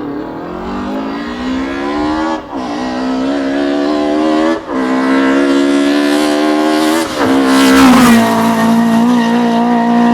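Race car engine accelerating hard up a hillclimb course, the revs rising and cutting briefly twice as it shifts up. It then passes close about eight seconds in, loudest there, with the pitch dropping.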